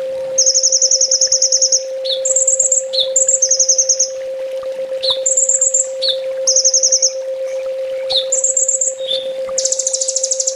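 Kolibri ninja sunbird song: rapid high trills, each about a second long, alternating with short high twitters and quick falling notes, over a steady low hum.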